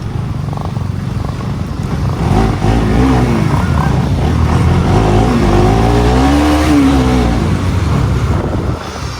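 Motorcycle engine running under throttle while riding, a heavy low rumble whose pitch rises and falls between about two and eight seconds in.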